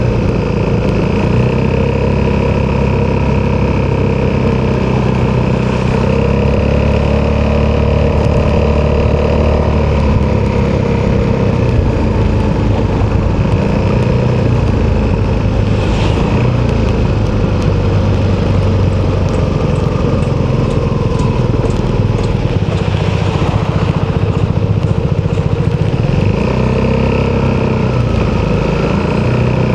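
Italjet Dragster 200's single-cylinder four-stroke engine through an Akrapovic exhaust, running under way. Its pitch holds fairly steady for about ten seconds, then drops and wavers, and rises again near the end.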